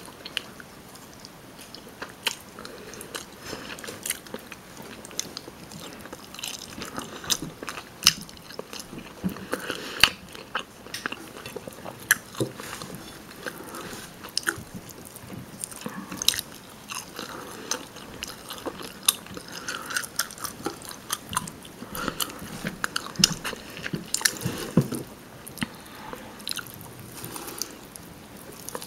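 Close-miked eating sounds of rotisserie chicken being chewed: irregular biting, chewing and sharp mouth clicks and smacks.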